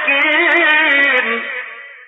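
A male reciter chanting the Quran in melodic tajweed style, holding a long, wavering drawn-out note that fades away near the end.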